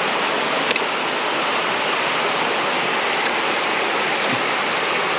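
Steady rushing of a small mountain creek's flowing water, an even hiss that holds level throughout, with one faint short click less than a second in.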